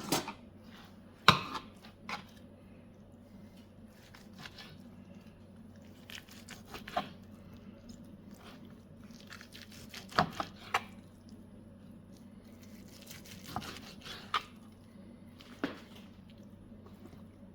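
Knife cutting a chunk out of a smoked beef roast: scattered sharp clicks and knocks, the loudest about a second in, with short stretches of faint scraping and rustling between.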